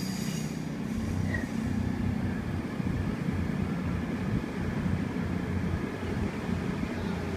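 Diesel passenger train running past, a steady engine drone over the rumble of its wheels on the rails.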